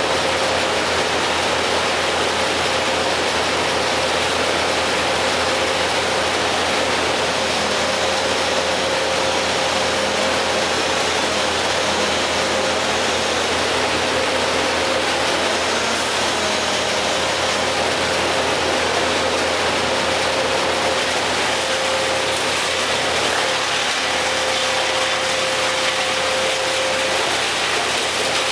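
An engine running steadily at idle, with a faint steady whine that fades in and out.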